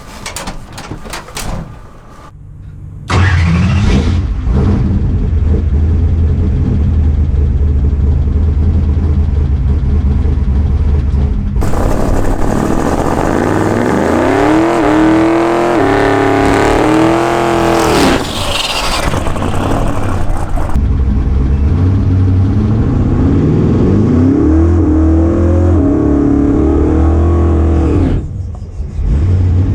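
Twin-turbo big-block Chevy V8 drag car engine starting suddenly about three seconds in, then running loud at a low, lumpy idle. Through the middle it turns harsh and noisy as the revs swing up and down repeatedly. After that it settles back to idle with more rev blips near the end.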